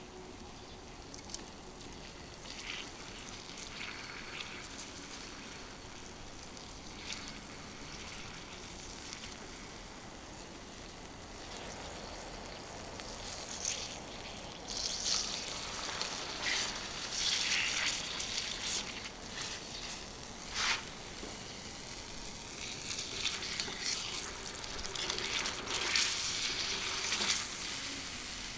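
Sirloin steak sizzling on a small iron griddle plate, a steady frying hiss that turns into louder, busier spitting and popping from about halfway through.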